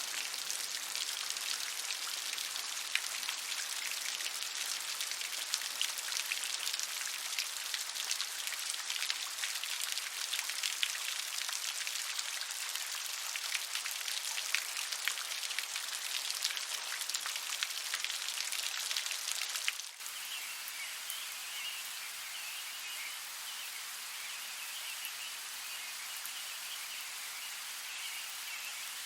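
Heavy rain with individual drops pattering densely. About two-thirds of the way through it cuts suddenly to softer, steadier rain with a high, continuous chirping chorus of small animals.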